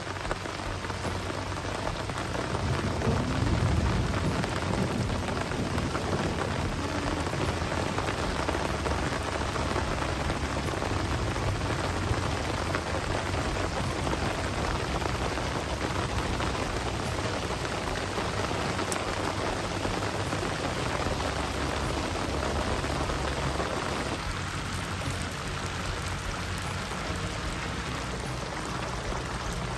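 Steady rain falling on the lake and the boat, with a low rumble underneath.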